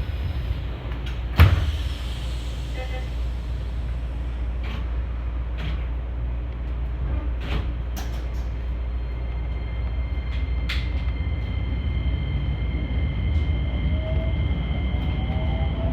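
Keisei 3000-series electric train: a steady low rumble with a sharp thump about a second and a half in and scattered clicks. Near the end the traction motors' whine rises in pitch as the train pulls away.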